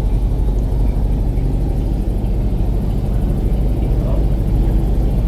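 Airboat's engine and propeller running steadily at cruising pace, a constant low drone.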